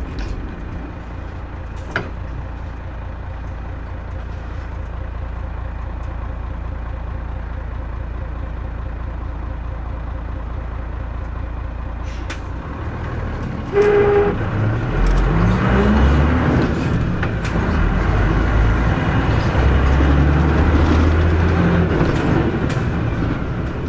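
Mitsubishi Fuso KC-MP317M bus engine idling steadily, heard from inside the bus. About 14 s in there is a short tone and the bus pulls away, its engine revving up in rising steps as it accelerates.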